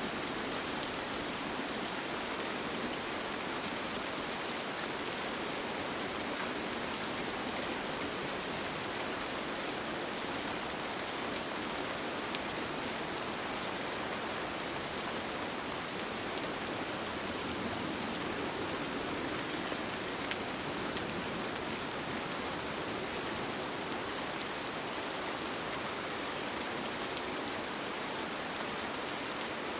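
Steady rain falling on a tent, heard from inside, an even hiss with faint scattered drop ticks.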